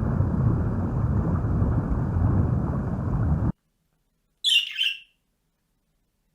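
A loud, low, rumbling noise that cuts off suddenly about three and a half seconds in. About a second later a bird gives a short two-note chirp.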